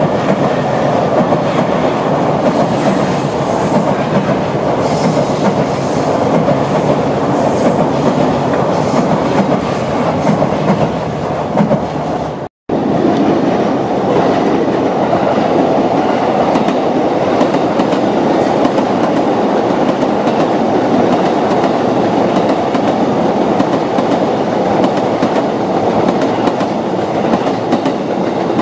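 Electric commuter trains running over the tracks: a steady rumble with wheel clatter on the rails. The sound cuts out for a moment about twelve seconds in.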